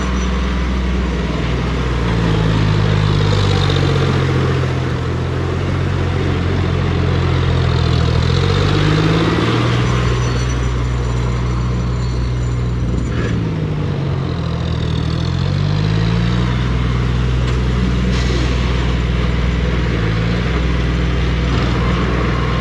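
Tractor's diesel engine running hard, its pitch sliding up and down as the revs change, over a steady rushing noise.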